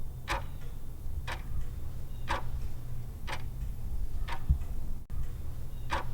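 Clock ticking about once a second, a countdown-timer sound effect marking the time to answer a quiz question, over a low steady hum.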